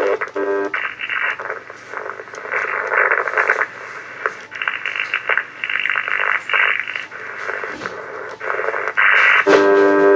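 2-metre VHF ham radio receiver's speaker putting out a strange noise: blocks of hissing static that switch on and off every half second to a second. A buzzing tone with steady overtones comes in near the end.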